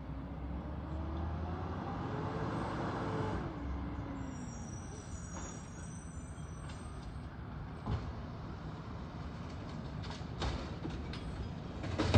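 Heavy garbage truck running. Its engine pitch rises over the first three seconds, then falls away, and a few sharp knocks come later.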